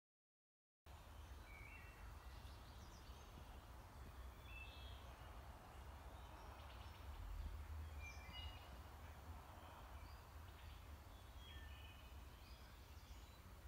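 Faint, short bird chirps come at scattered moments over a low steady hum. They start after about a second of silence.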